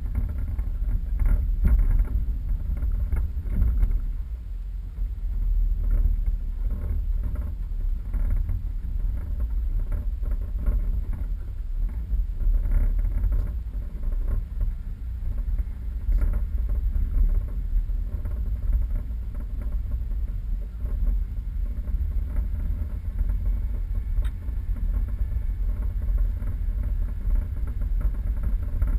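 4x4 vehicle driving off-road: a steady low rumble with irregular short knocks and jolts.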